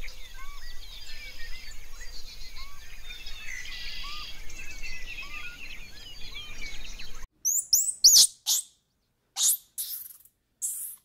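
A dense chorus of many small birds chirping, which cuts off abruptly about seven seconds in. Then come a few loud, high, sharp chirps with silent gaps between them.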